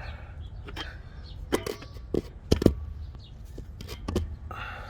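A handful of separate knocks and clicks, as of tools and suspension hardware being handled while a strut is fitted, the loudest a pair about two and a half seconds in.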